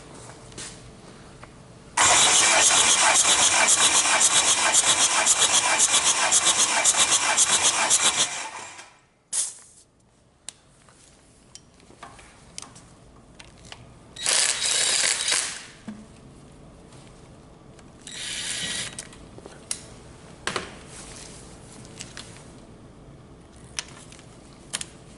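Hyundai D4CB four-cylinder diesel engine turned over on its starter for about six seconds during a compression test, then stopping. Two shorter, quieter bursts of noise follow later, with a few clicks.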